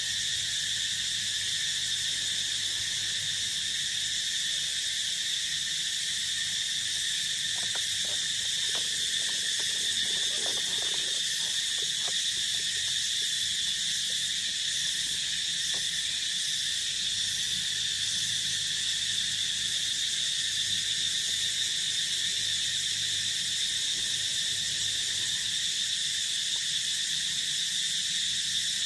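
A chorus of crickets and other field insects singing steadily at several pitches. A few faint, short low calls come through between about 8 and 16 seconds in.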